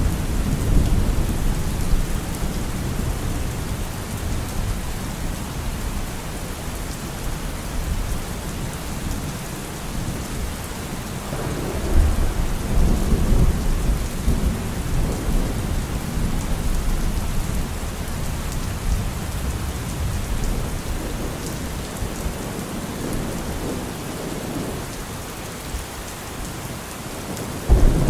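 Steady rain with rolling thunder rumbling underneath. The rumble swells about twelve seconds in, and a louder thunderclap breaks in near the end.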